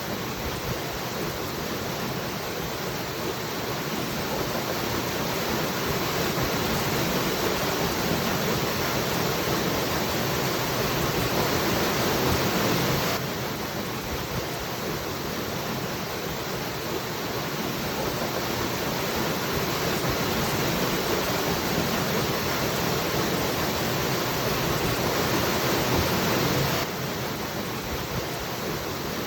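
Waterfall rushing in a steady, even roar of falling water. The loudness slowly swells and then drops suddenly, twice: near the middle and near the end.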